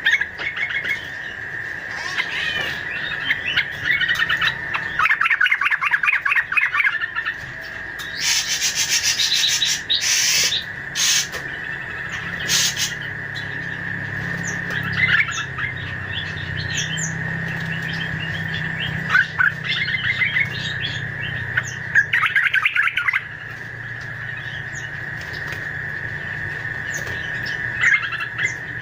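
Bird lure recording for fruit-eating birds: repeated bursts of high chirping over a steady high-pitched drone, with a few harsh, noisy calls about a third of the way in.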